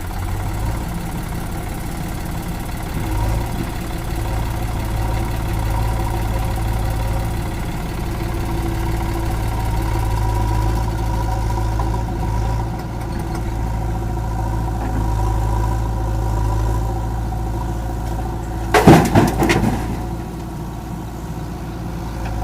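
Heavy diesel engine running steadily at a low, even speed. Near the end, a short, loud clatter of knocks lasts about a second.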